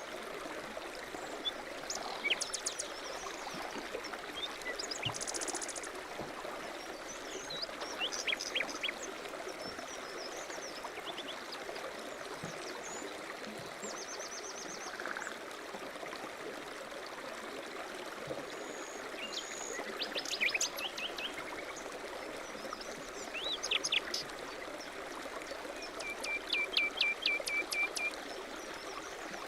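A running stream, a steady rushing noise, with small birds chirping and trilling over it in short, scattered phrases. Near the end one bird gives a quick trill of about eight repeated notes.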